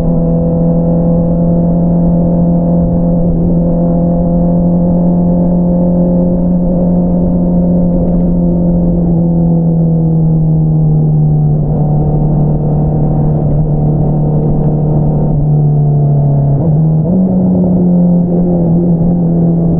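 2022 Honda CBR650R's inline-four engine running through an Akrapovič single-outlet exhaust at a steady cruise, its pitch easing slowly downward, then jumping up abruptly about three-quarters of the way through.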